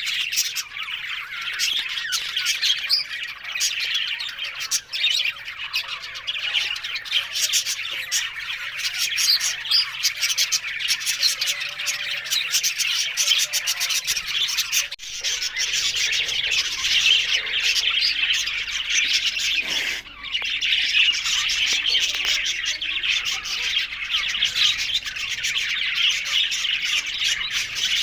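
Budgerigars chirping and chattering together in a dense, continuous warble, with a brief break about halfway through.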